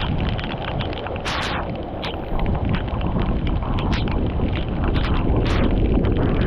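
Floodwater rushing and churning, with irregular splashes and wind buffeting the microphone.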